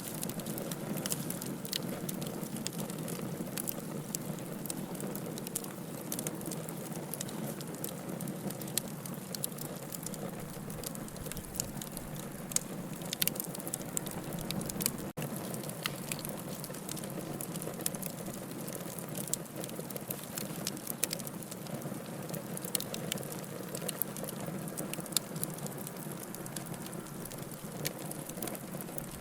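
Wood logs burning in a fireplace: a steady hiss with frequent sharp crackles and pops scattered throughout, and a momentary dropout about halfway.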